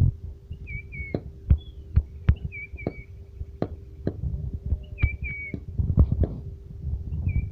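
A bird calling in pairs of short, downward-sliding whistled notes, repeated about every two seconds. Sharp clicks and low thumping rumble run underneath, with a faint steady hum.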